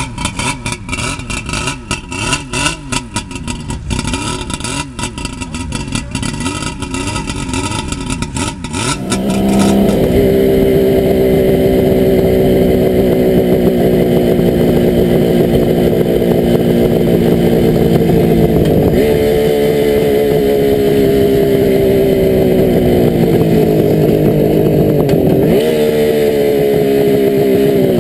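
Suzuki GT550's air-cooled three-cylinder two-stroke engine running. For the first nine seconds or so it runs unevenly, with a choppy, crackling exhaust. It then changes to a louder, steady drone whose pitch shifts slightly a couple of times.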